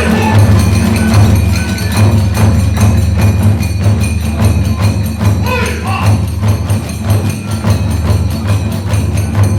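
Kagura hayashi accompaniment at a fast, driving rhythm: large and small taiko drums beaten steadily, with brass hand cymbals (te-uchigane) clashing on every beat.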